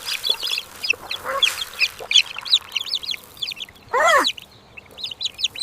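Cartoon farmyard sound effects of chickens: many quick, high chick peeps and hen clucks, with one louder call that rises and falls about four seconds in.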